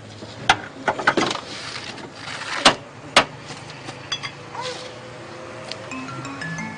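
Several sharp knocks and clanks of a hammer and tools being worked, the loudest two strikes about half a second apart near the middle. Short musical notes come in near the end.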